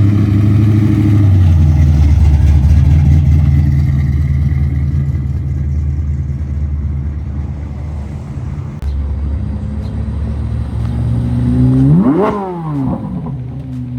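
Muscle car engines running at low speed, a deep steady rumble that fades slowly. About twelve seconds in, one engine is blipped in a quick rev up and back down, and near the end an engine note climbs slowly as a car pulls away.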